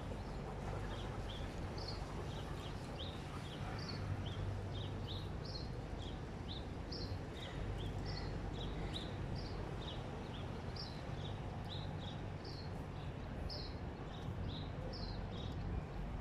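Small birds chirping, short high notes a couple of times a second, over a steady low rumble.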